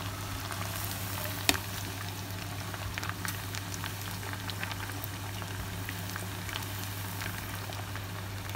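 Marinated chicken wings frying in hot oil with curry leaves: steady sizzling and bubbling, dotted with crackles and pops. A single sharp click stands out about a second and a half in.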